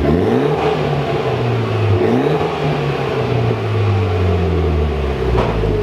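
Mitsubishi Lancer Evolution X's turbocharged four-cylinder engine running through a freshly fitted aftermarket exhaust, revved briefly twice and then settling back to a steady idle. No exhaust leak can be heard.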